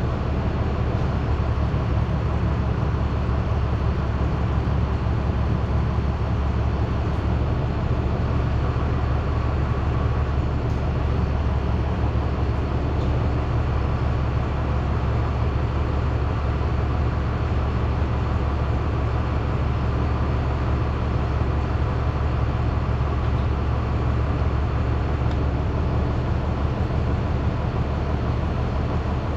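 Steady, loud low machine rumble that holds unchanged throughout, with no separate knocks or clanks.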